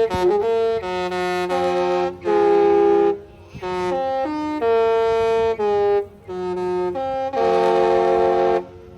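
Disney Treasure's musical ship horn playing a tune as a series of loud held chords, some short and some about a second long, stopping near the end.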